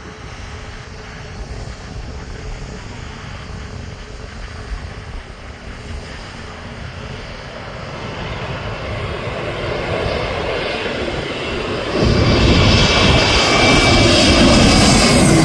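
A landing passenger aircraft's engines grow louder as it comes in. The sound jumps sharply about twelve seconds in, and a high steady engine whine comes in over the rumble.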